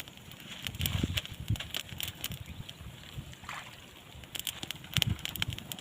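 Water sloshing and splashing, with scattered light clicks.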